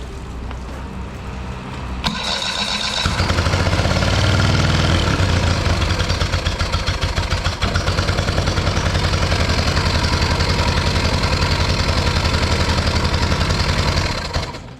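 Parsun 25 hp outboard motor starting on its newly fitted replacement carburetor: it catches about two seconds in, revs up and back briefly, then runs steadily with an even pulsing beat, and cuts off near the end.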